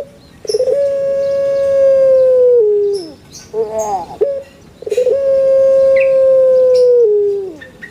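A bird calling twice: each call is a few short wavering notes followed by one long, steady note of about two seconds that falls away at its end.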